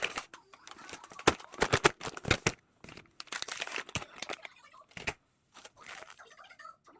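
Crinkling and rustling of packaging, with irregular sharp clicks and knocks from items being handled, the loudest about a second to two and a half seconds in.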